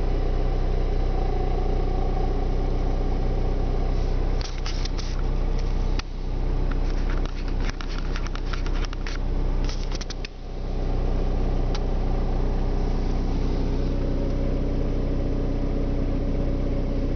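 2007 Ford Focus 1.6 TDCi Duratorq four-cylinder diesel idling steadily just after a cold start at −13 °C. A run of sharp clicks and knocks comes from about 4 to 10 seconds in.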